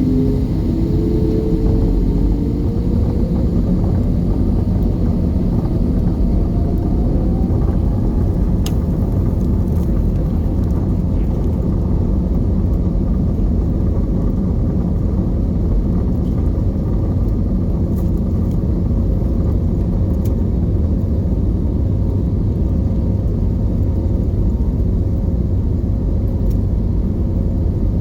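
Airbus A320 engine and airflow noise heard from inside the passenger cabin: a loud, steady rumble, with a tone rising in pitch over the first several seconds before it settles.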